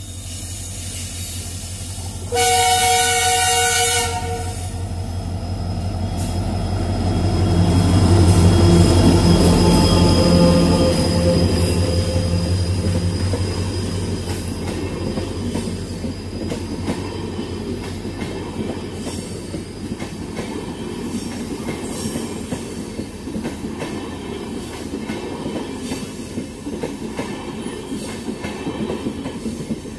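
A passenger-train diesel locomotive gives one horn blast of about a second and a half, then passes with an engine drone that swells and fades. After it, the coaches roll by with a steady rattle and clickety-clack of wheels over the rail joints.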